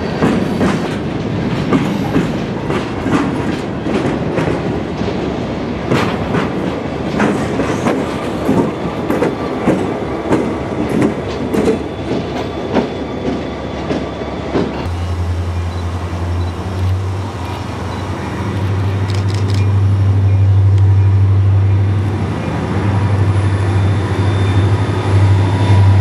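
Freight train rolling past, its wheels clicking rhythmically over the rail joints. About fifteen seconds in the sound changes abruptly to a steady low hum with fewer clicks.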